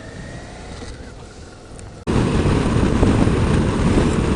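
A faint rising whine at first, then about two seconds in an abrupt cut to loud, steady wind rushing over the microphone of a moving motorcycle, with the engine running underneath.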